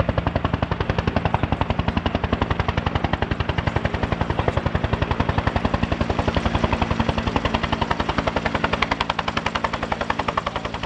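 Bell UH-1 Huey helicopter's two-bladed main rotor beating with a rapid, even blade slap, about ten beats a second, over a steady hum.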